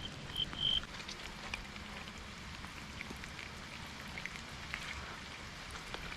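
Steady light rain falling, with scattered raindrops ticking on the creek gravel. A few short high chirps sound in the first second.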